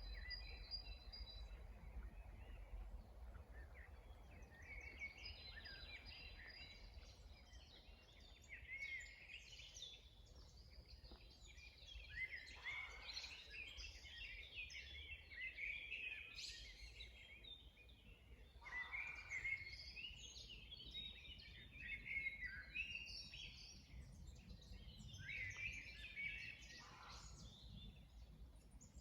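Several songbirds singing together in a spring chorus of overlapping chirps, trills and warbles, over a faint low rumble.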